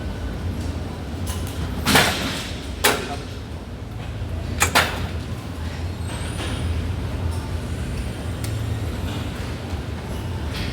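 Gym weight machine in use: a few sharp metallic clanks, the loudest about two seconds in and another two near the middle. A steady low hum runs underneath.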